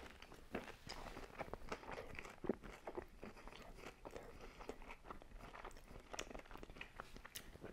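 A person chewing crispy thin-crust pizza: a run of irregular, crunchy bites and chews.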